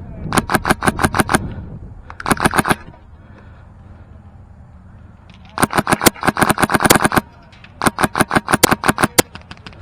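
Airsoft rifle with a PolarStar Fusion Engine (HPA) firing in four bursts of rapid shots. There is a short burst near the start, a very short one around two and a half seconds, the longest burst at about six to seven seconds, and another just before the end.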